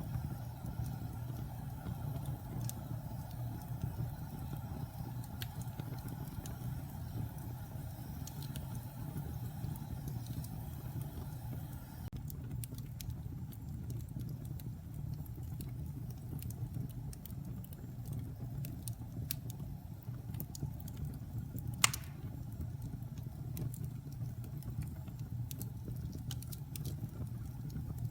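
Fire burning in a fireplace: a steady low rumble with scattered crackles and one loud pop about 22 seconds in.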